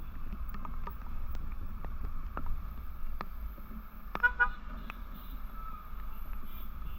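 Steady low wind and road rumble of a motorcycle ride, with scattered sharp ticks. About four seconds in, a vehicle horn gives a quick run of short beeps, the loudest sound here.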